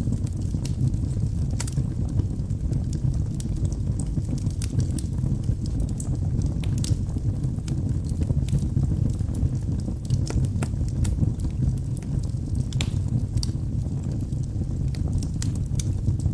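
Logs burning in a fireplace: a steady low rumble of the flames with scattered sharp crackles and pops.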